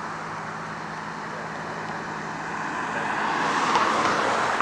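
A road vehicle driving past, its noise growing to a peak about four seconds in and then fading, over a steady low hum.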